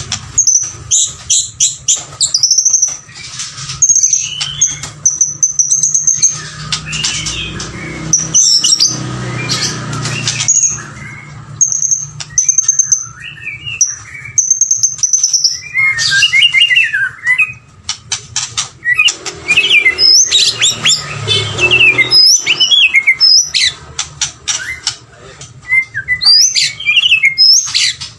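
White-rumped shama singing: a varied, continuous run of high whistled phrases that glide up and down, broken up by quick clicking and chattering notes.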